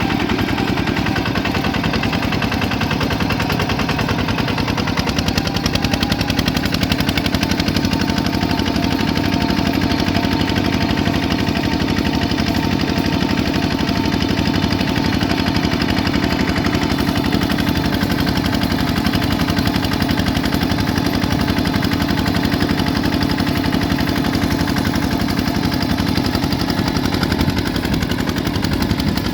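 Bulldozer's diesel engine running steadily with a fast, even clatter.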